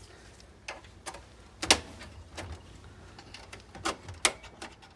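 Scattered sharp clicks and knocks of plastic and metal parts inside an HP desktop PC being handled and unlatched during disassembly, about six in all, the loudest nearly two seconds in and two more close together near the end.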